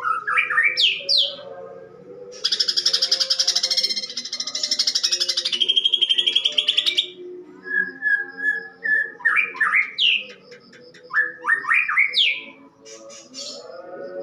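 Greater green leafbird (cucak ijo) singing in a harsh voice, its song filled with mimicry of fighting tree sparrows: sharp rising whistled notes, then a rapid buzzing chatter lasting about four seconds, then more quick rising notes.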